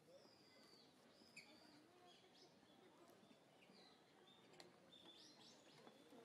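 Near silence, with faint scattered high bird chirps.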